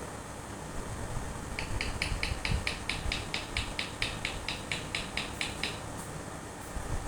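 Pet parrot giving a rapid run of short, identical chirps, about five a second, lasting about four seconds, over a steady low hum.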